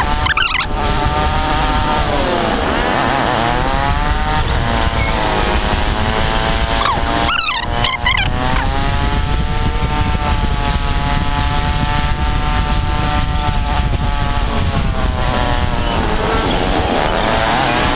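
Royal Enfield Guerrilla 450's single-cylinder engine running under load while towing a second, dead motorcycle, with wind rushing over the microphone. The engine note dips and picks up again about three seconds in, then holds fairly steady.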